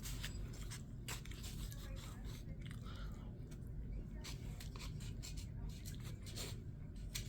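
A person chewing a mouthful of ground-beef burrito close to the microphone, with scattered short clicks and smacks of the mouth.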